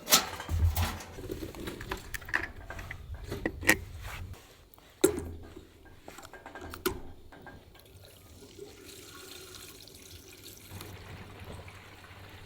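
Objects being handled: a run of sharp clicks and knocks through the first seven seconds, then a faint steady hiss.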